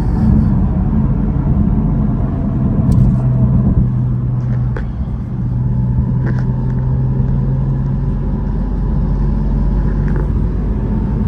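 Porsche 718 Spyder RS's 4.0-litre flat-six engine running under way at a steady pace, with tyre and rain noise on a wet road. The engine note eases briefly about halfway through, then holds steady again.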